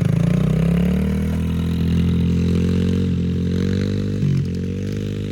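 Yamaha TT-R110 dirt bike's single-cylinder four-stroke engine pulling away, its pitch rising at the start and then running steadily under throttle, with a few brief dips in pitch near the end as the throttle is eased.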